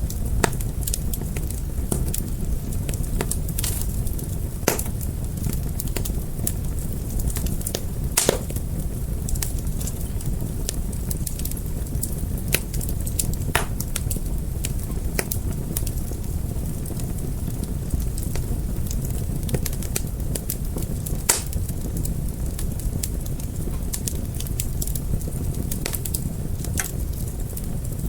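Wood fire burning, with a steady low rumble and irregular sharp crackles and pops, a few louder snaps, the strongest about 8 and 21 seconds in.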